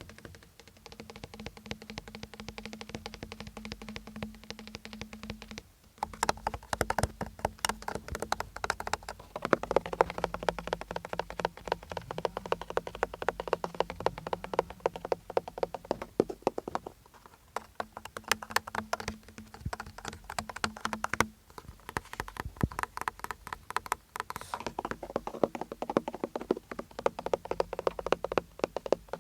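Fast tapping, many quick taps a second in continuous runs, softer for the first few seconds and again about two thirds of the way in, louder in between.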